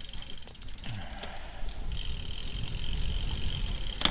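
Merida Silex 200 gravel bike being ridden, with a steady low rumble of tyres and wind, a thin steady high whine through much of it, and a sharp click near the end.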